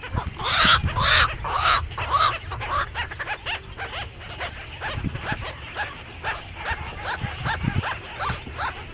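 Birds calling: a few loud, harsh squawks in the first two seconds, then a quick run of short chirping calls, about three a second.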